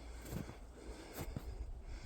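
Footsteps in packed snow on a steep uphill trail, short soft crunches about once a second.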